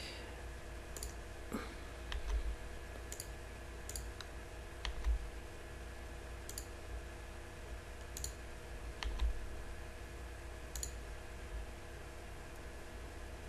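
Computer mouse and keyboard clicks while editing a 3D model: a dozen or so single sharp clicks at irregular intervals, over a faint steady hum.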